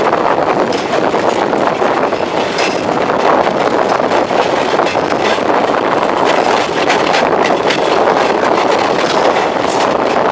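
Passenger train running at speed: a steady, loud rush of noise with faint scattered clicks.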